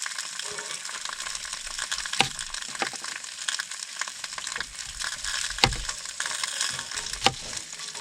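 Bratwursts and Spam frying in skillets over a hot camp burner, sizzling steadily. A few sharp clicks of metal tongs on the skillet, four in all.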